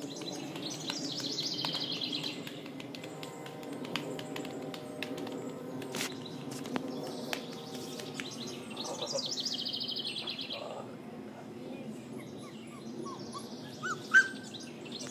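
A songbird singing in the background: a rapid, high trill about two seconds long, three times. Near the end comes a brief sharp squeak, the loudest sound.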